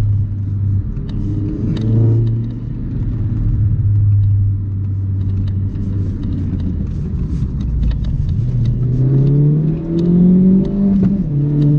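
Vauxhall Corsa VXR's 1.6-litre turbocharged four-cylinder engine heard from inside the cabin on the move. It runs steadily at first, then from about eight seconds in the revs climb in a rising pull, and near the end they drop suddenly.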